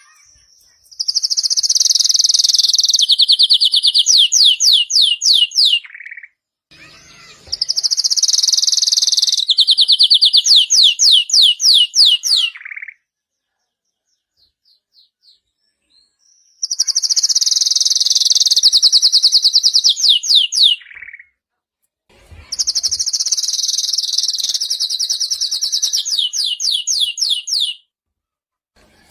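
Domestic canary singing in four loud phrases with short pauses between. Each phrase opens with a fast trill, turns into a run of slower notes sliding downward, and ends on a lower note.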